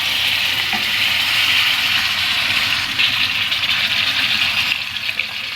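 Yogurt-marinated chicken pieces sizzling and crackling in hot oil in a pot, a steady frying hiss that eases a little near the end.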